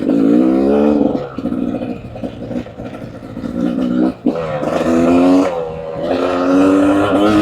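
Beta 300RR two-stroke dirt bike engine being ridden, revving up and down with the throttle, with a brief let-off about four seconds in before it picks up again.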